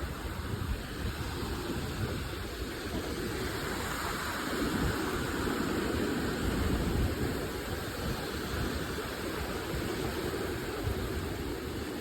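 Wind buffeting the microphone outdoors: a steady rushing noise with an uneven low rumble from the gusts, swelling slightly partway through.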